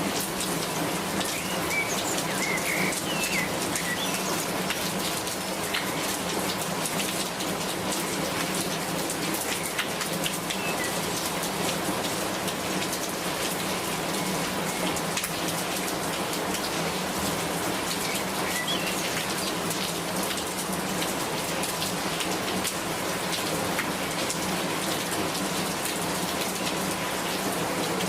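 Steady rain falling, with many individual drops ticking on a hard surface over a constant hiss.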